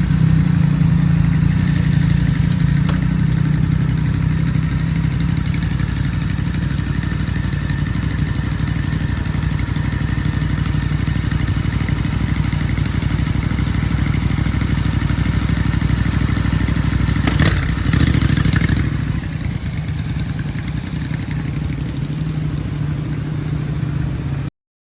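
Motorcycle engine running at a steady idle with no revving. There is a sharp click about two-thirds of the way through, and the sound cuts off suddenly near the end.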